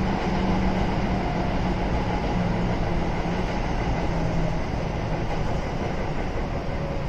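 Kintetsu 7000 series train running, with its early Hitachi GTO-VVVF traction equipment, heard from inside the car: a steady running rumble with a low hum that fades out about two-thirds of the way through.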